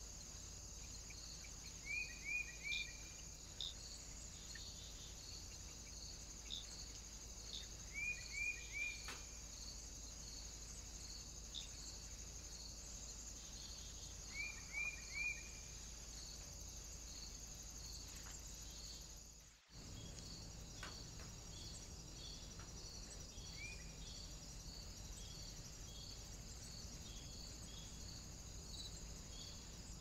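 Faint outdoor ambience with a steady high hiss carrying a regular soft pulse, and a small bird giving quick groups of three falling chirps three times, then a single chirp. About two-thirds of the way in, the sound drops out for a moment.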